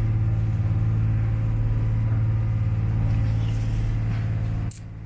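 A boat's engine runs with a steady low hum. Near the end there is a click and the sound suddenly drops to a lower level.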